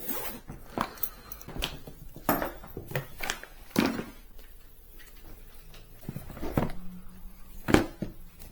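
Irregular knocks, clicks and rustles of objects being handled and set down, with the loudest knock about three-quarters of the way through.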